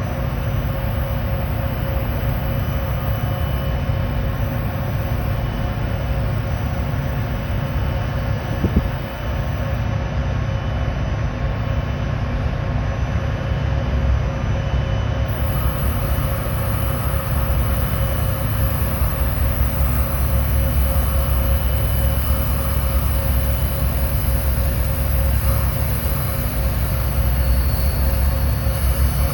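Amtrak passenger train pulling into the station, a steady low rumble with a constant hum from the locomotive and rolling cars. There is a single short knock about nine seconds in, and the rumble grows a little louder in the second half.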